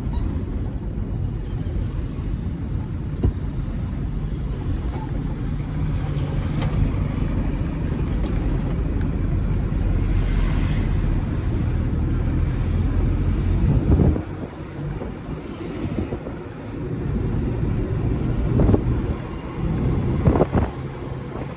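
Truck engine running with a steady low drone, which drops in level about two-thirds of the way in. A few knocks and thumps follow.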